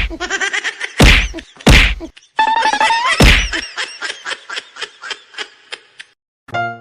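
A series of loud whacks, four hard hits in the first three and a half seconds, mixed with high gliding pitched sounds. They are followed by a run of quick, fading ticks.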